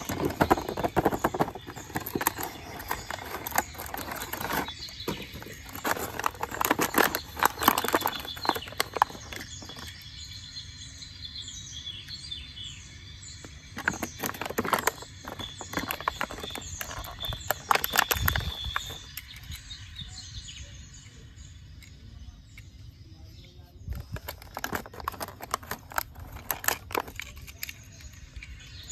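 Birds chirping in the background, with bursts of rapid clicking and rattling that come and go.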